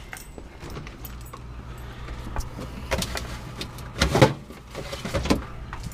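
Refrigerator opened and items inside handled: scattered knocks and clatter, loudest a pair of knocks about four seconds in, over a steady low hum.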